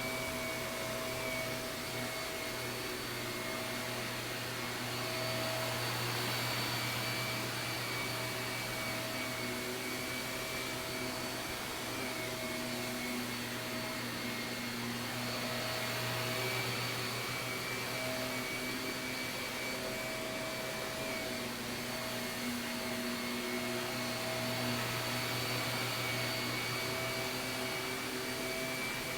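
Shark upright vacuum cleaner running steadily as it is pushed across carpet, a continuous motor whine over airflow hiss that swells and dips a little with each pass.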